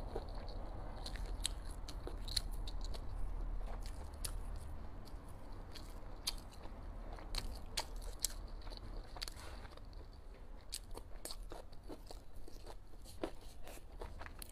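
A person biting and chewing crunchy green vegetable stalks close to the microphone, with many sharp, irregular crunches.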